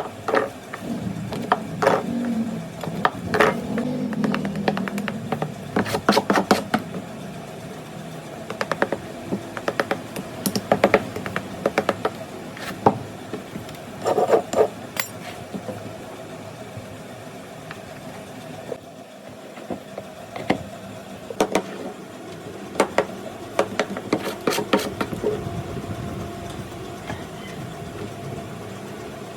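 Irregular sharp clicks and knocks of hand tools on hard material, some in quick clusters, over a steady hum.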